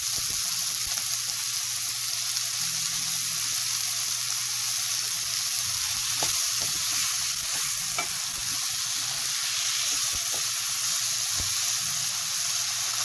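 Sliced onions, tomatoes, ginger and dried red chillies sizzling steadily in olive oil in a frying pan. A spatula stirring them gives a few light clicks around the middle.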